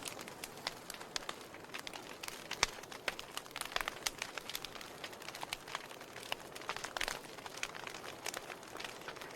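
Wood logs crackling in a fireplace: irregular sharp snaps, several a second, over a soft steady hiss of the fire, the loudest pop a little over two and a half seconds in.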